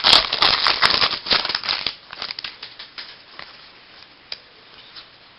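Trading cards being handled and flipped through, rustling and crinkling for about the first two seconds, then quieter with a few scattered clicks.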